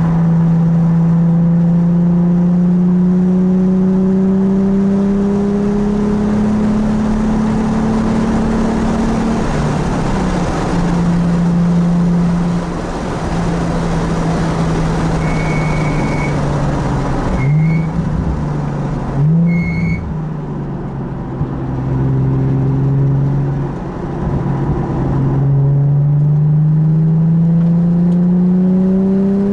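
Nissan 370Z's 3.7-litre V6 being driven hard on a race track. The engine note climbs steadily under acceleration, then drops and holds at a lower pitch through the middle with a few brief dips and short high squeals, and climbs again as it pulls hard near the end.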